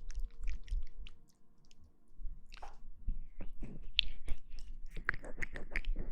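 Close-miked ASMR sounds: a run of quick wet clicks and crackles, sparse at first and dense from about three seconds in.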